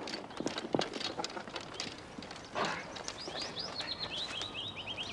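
A songbird giving a quick trill of about a dozen short high chirps, starting about three seconds in and falling slightly in pitch, over scattered light ticks and taps.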